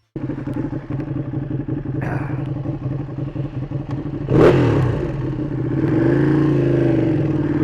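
Motorcycle engine running at idle with a steady note, given a short throttle blip about two seconds in and a sharper one about four and a half seconds in, then a gentle rise and fall in revs near the end.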